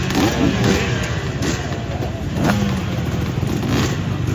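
Several small 50cc two-stroke motocross bikes running together, their engines revving up and down at different pitches.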